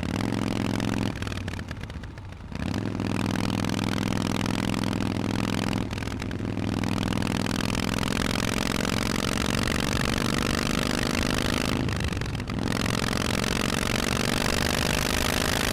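Harley-Davidson Forty-Eight's V-twin engine with Vance & Hines exhausts under way, its note climbing steadily under throttle. The note drops off briefly three times as the throttle closes between pulls, and the rush of wind rises with speed.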